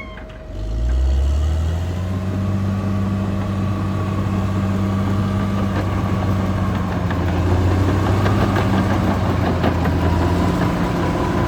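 Caterpillar D6R XL bulldozer's diesel engine coming up in revs within the first second, then running steadily, with light clanks now and then.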